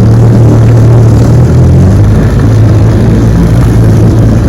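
A 1968 Evinrude 9.5 hp two-cylinder two-stroke outboard running steadily in reverse gear, its low note shifting slightly about two seconds in.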